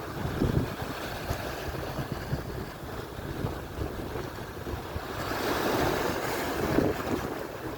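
Atlantic surf washing on the shore, with wind buffeting the microphone in low rumbles. A wave surges in, its hiss swelling about five seconds in and easing near the end.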